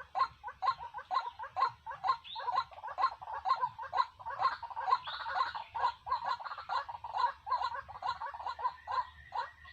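A bird calling in a rapid, steady series of short clucking notes, about three or four a second.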